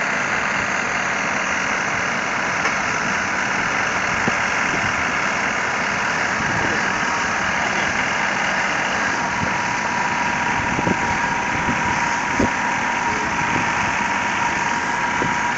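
Heavy truck's diesel engine running steadily at idle, with a faint steady whine joining about halfway and a few light knocks.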